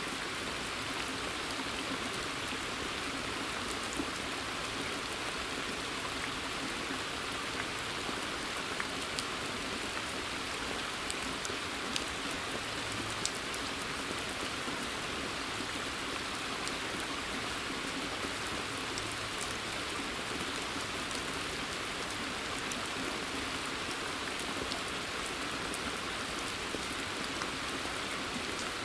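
Steady rain falling in a forest, an even hiss with scattered sharp ticks of single drops standing out.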